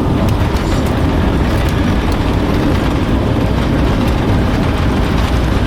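Loud, steady rumble of engines and rushing air inside the cabin of a Boeing 757-200 airliner, with a few faint rattles.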